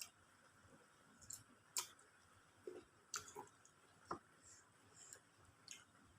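Quiet eating sounds from a person eating chicken biryani: faint chewing with about ten soft, irregular mouth clicks and smacks.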